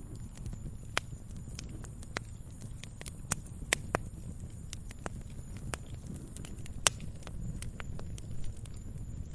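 Wood campfire crackling: irregular sharp pops and snaps over a steady low rumble of the flames, with a few louder pops, the loudest nearly three quarters of the way through.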